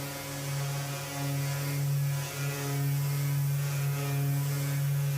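Electric sander running steadily on the face of oak-veneered plywood with 180-grit abrasive: a constant motor hum with a hiss of abrasive over it.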